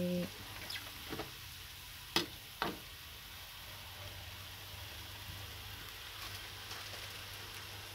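Winged beans and bean sprouts sizzling steadily as they stir-fry in an aluminium wok. A few sharp knocks from the spatula against the wok come in the first three seconds.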